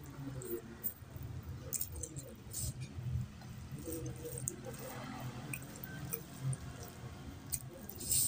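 A person chewing a mouthful of curry and rice, with many short, sharp wet mouth clicks, and fingers squishing rice and curry together on a plate.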